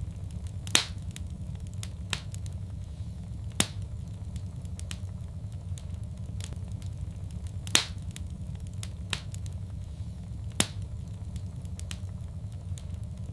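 Fireplace fire crackling: scattered sharp pops, a louder one every few seconds, over a steady low rumble of the flames.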